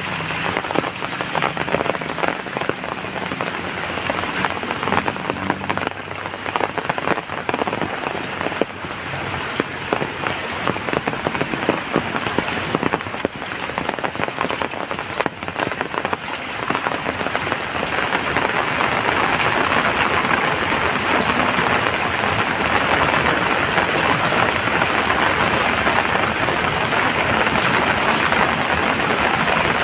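Heavy rain falling, a steady wash full of separate drop hits. It grows louder and more even about two-thirds of the way through as the downpour thickens.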